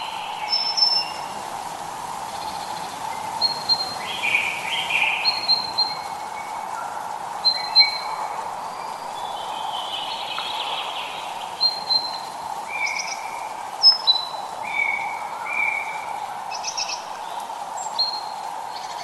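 Several birds singing and calling, with short whistled notes and chirps repeating throughout, over a steady hiss of light rain.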